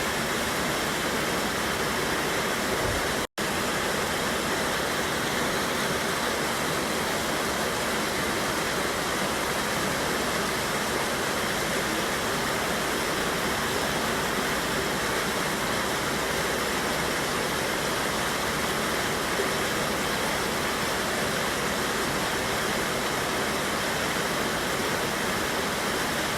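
Steady rushing of a mountain river pouring over a waterfall. The sound cuts out for an instant about three seconds in.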